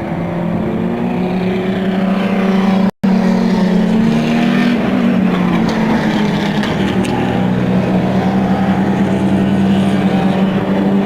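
Race car engines running on the circuit, a loud, steady engine drone that cuts out briefly about three seconds in.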